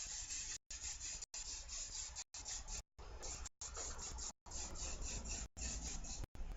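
Aerosol hairspray hissing in a run of sprays, cut by frequent short silent gaps.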